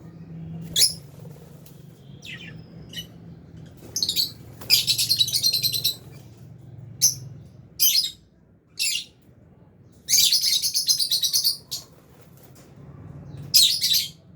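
Lovebirds giving sharp, high-pitched chirps, with two longer bursts of rapid chattering about five and ten seconds in.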